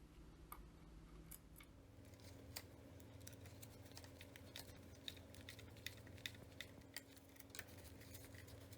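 Near silence: faint, scattered light clicks, several a second, over a low steady hum.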